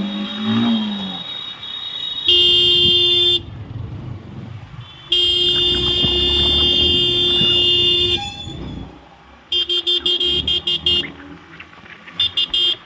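Vehicle horn sounding loudly: one blast of about a second, then a long blast of about three seconds, then two runs of rapid short toots near the end. Engine note rising and falling in the first second.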